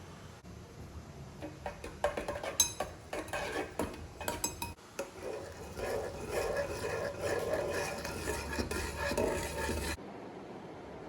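Kitchenware clinking and clattering: a spoon or cutlery knocking against dishes, then a denser stretch of clatter that cuts off suddenly near the end.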